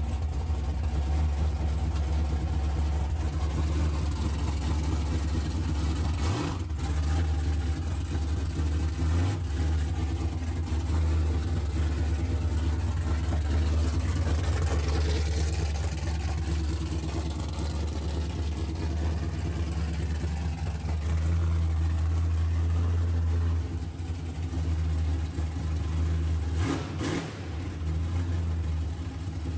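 Supercharged 540-cubic-inch V8 of a Chevelle burnout car running at low revs with a deep, steady rumble as the car creeps along under its own power.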